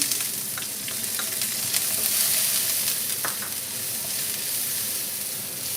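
Chopped garlic, ginger and chili hitting hot oil in a frying pan: a loud, steady sizzling hiss that starts suddenly, with scattered taps and scrapes of stirring.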